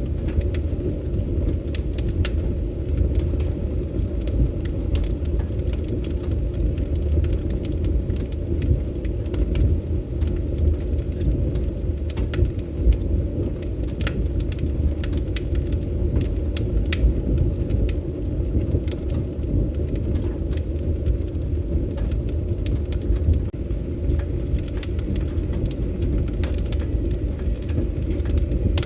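Wood fire burning: a steady low rumble of flames with scattered, irregular sharp crackles and pops.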